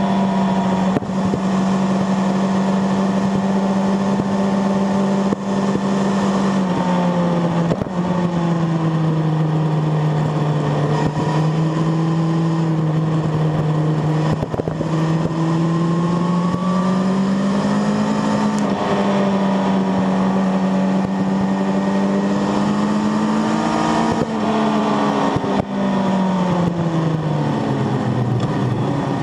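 Sport motorcycle engine running hard at high revs, recorded on board over steady wind noise. Its pitch drops about a quarter of the way in, climbs again around two thirds through, and falls away near the end as the rider slows for corners and drives out of them.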